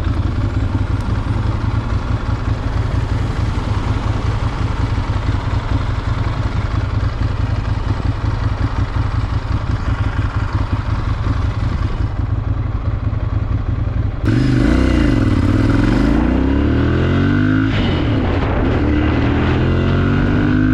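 Ducati Monster 796's air-cooled L-twin engine running steadily at low revs. About 14 seconds in it gets louder and the revs climb and fall as the bike accelerates through the gears.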